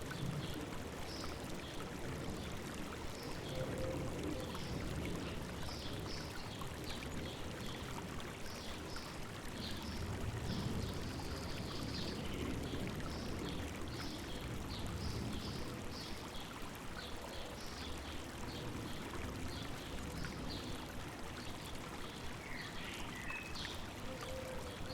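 River water babbling steadily, with many small birds chirping in short, high notes throughout.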